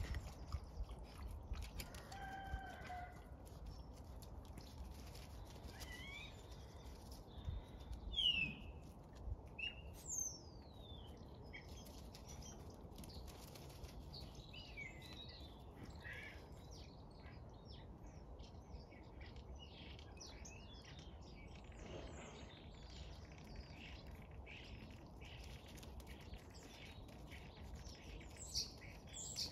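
Birds chirping in the background: scattered short, quick notes sweeping up and down in pitch, busiest about a third of the way in, over a faint low rumble.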